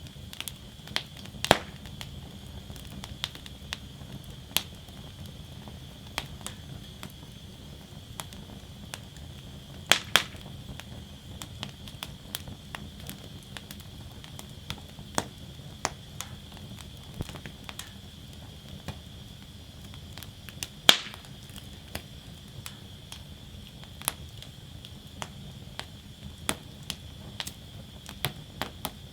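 Wood fire burning in a fire basket, crackling: frequent small irregular crackles with a few louder pops, about one and a half, ten and twenty-one seconds in, over a steady low rumble.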